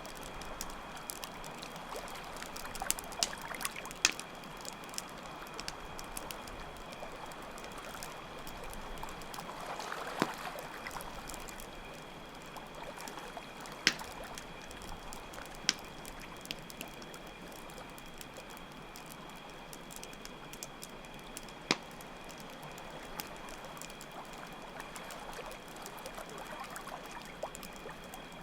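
Campfire ambience: water flowing steadily under the sharp pops and crackles of a wood fire, with crickets chirping in a constant high trill.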